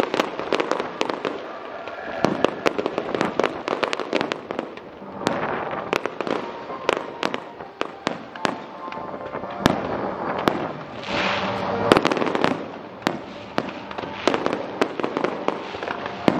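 Aerial fireworks shells bursting in a dense, overlapping barrage: a rapid, irregular string of sharp bangs and pops, several a second.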